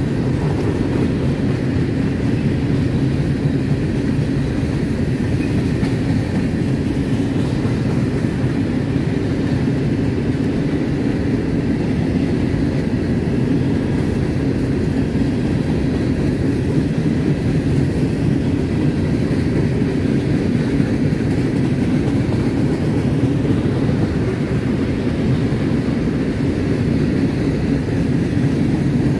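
A train rolling steadily past, a continuous low rumble of railcars on the track.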